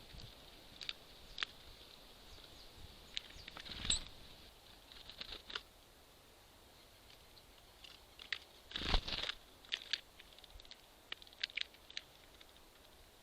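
Small birds pecking and tapping at seeds and nuts on a wooden feeder: irregular light ticks and taps, with two louder knocks or scuffles about four seconds in and near nine seconds.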